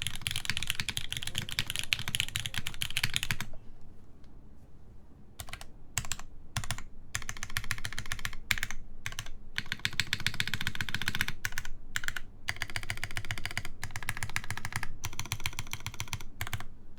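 Typing on a Kitsune mechanical keyboard with Gateron Oil King linear switches, GMK Fundamentals keycaps and a full aluminium plate. The keystrokes come fast and dense at first, pause for about two seconds, then return in bursts broken by brief gaps, and stop just before the end.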